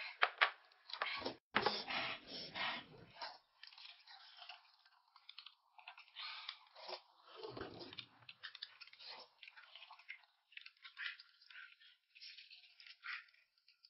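A person chewing and crunching food close to the microphone, with irregular crunchy bites throughout.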